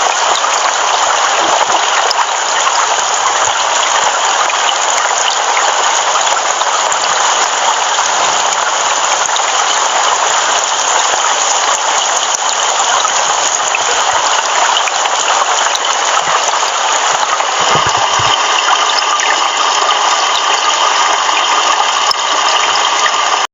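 Heavy rain pouring steadily, a dense hiss of water with no let-up.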